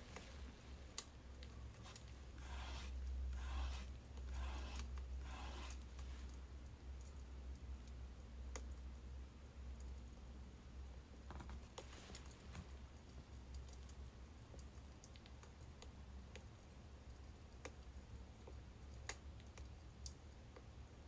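Birch logs burning in a wood fire, crackling with scattered sharp pops over a steady low rumble, with a denser run of softer crackle a few seconds in.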